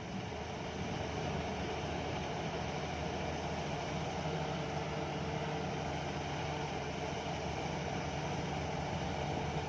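Heavy diesel engine running steadily at a constant speed, with a low, even hum.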